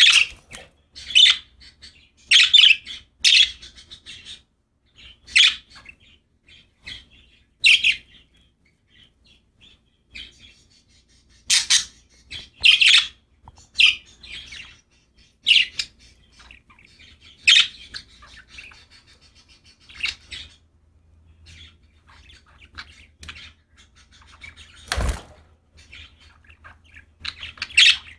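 Pet budgerigars chirping in short, scattered high calls every second or two, with a single sharp knock near the end.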